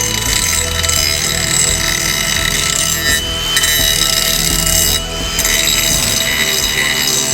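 Ryobi 18V brushless cordless angle grinder running with a grinding wheel bouncing on metal: a steady high motor whine under the grinding hiss, which briefly drops out twice.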